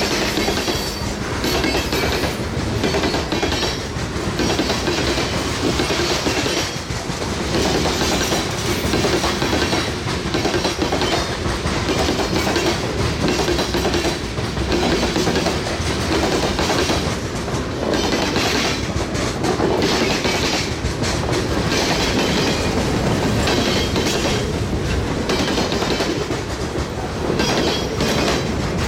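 Freight train cars rolling past, the wheels clicking steadily and repeatedly over the rail joints.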